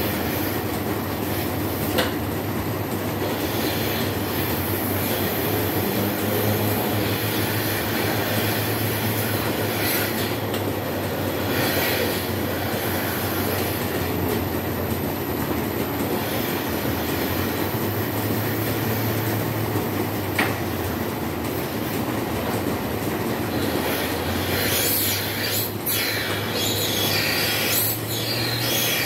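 Milking shed machinery running steadily with a low hum, with a couple of sharp clicks and a few short hisses, more of them near the end.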